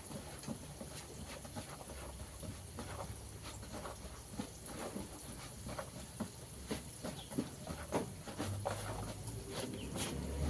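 Flour-coated fried chicken deep-frying in hot oil, crackling with many small irregular pops.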